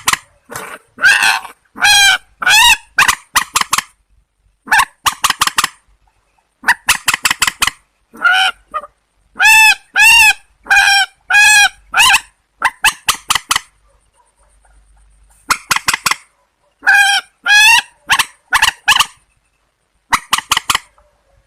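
Loud, repeated honking and screeching calls of rails (purple swamphen and white-breasted waterhen). They come in quick runs of short harsh notes, with a few drawn-out arched honks near the middle, and there is a short pause about two-thirds of the way in.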